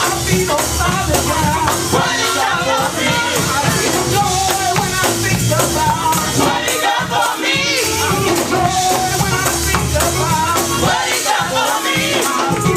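Live gospel praise music: voices singing and shouting over a fast, rhythmic tambourine and a steady low band accompaniment.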